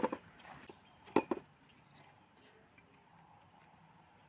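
Chinese cabbage pieces being put into a rice cooker pot: a few short knocks at the start and a double knock about a second in, then only faint small ticks.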